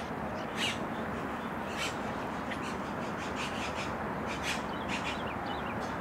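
Birds calling: a scattered series of short, high calls, bunched more closely in the second half, over a steady background noise of the lakeside.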